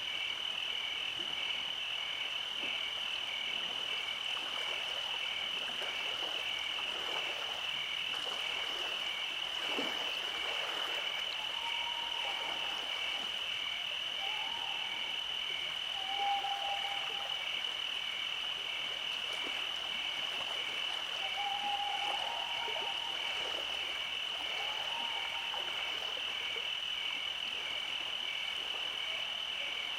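Night chorus of insects trilling in a steady high-pitched drone, with frogs croaking in short calls now and then, several times in the second half.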